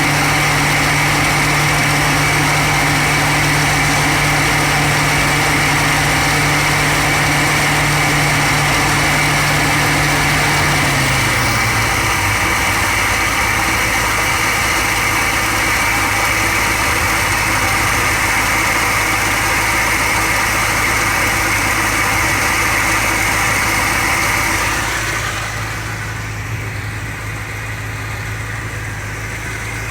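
1978 Ford LTD Landau's engine idling steadily; about eleven seconds in, the idle drops to a lower, slower note. A steady high whine over it stops near the end, leaving the idle a little quieter.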